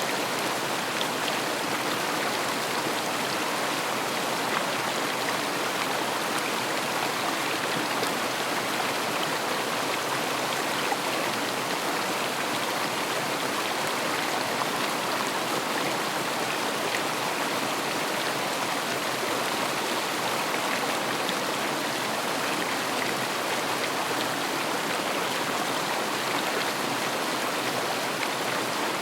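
River water flowing over stones: a steady, even rushing and babbling.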